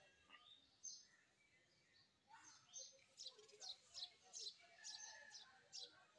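Faint bird chirps: a run of short, high chirps at about three a second through the middle, over a quiet background.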